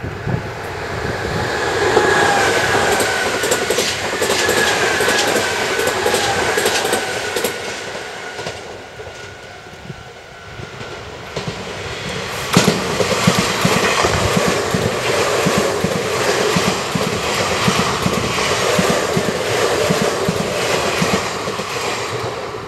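Nankai Koya Line electric train passing. First comes a whine that falls slightly in pitch, then a sharp clank about twelve seconds in, then the wheels clattering rapidly over the rail joints.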